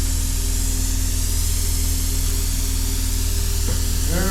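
Plasma cutter cutting steel: a steady hiss over a constant low hum.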